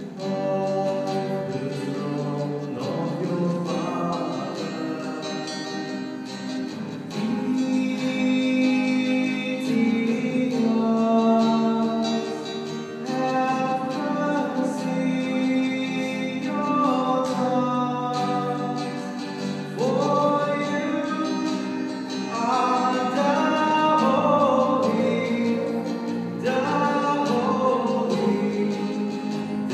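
A choir singing a slow song with long held notes, accompanied by guitar.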